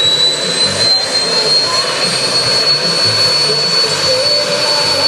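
Jet engine of a jet-powered drag car running, a loud steady rush with a thin high whine that slowly rises in pitch as the turbine spools up, before the afterburner is lit.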